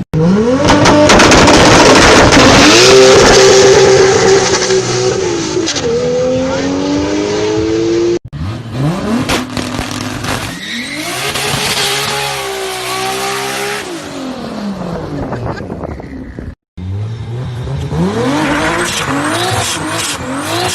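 Toyota Supra turbocharged straight-six engines revving hard through the exhaust, in three separate clips cut together. The engine note climbs, holds and drops again with gear changes and lifts off the throttle.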